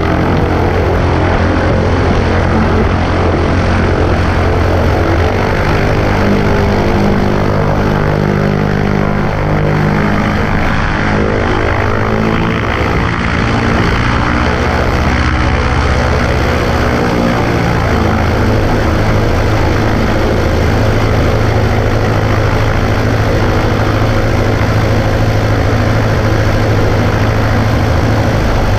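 Cessna 140A's piston engine and propeller running steadily, heard from the right wing with rushing noise; the engine note shifts a little in the middle, then holds steady.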